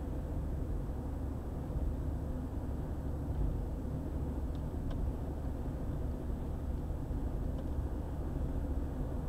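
Steady low rumble of a car driving at speed on a highway: road and engine noise, with a few faint ticks about halfway through and again later.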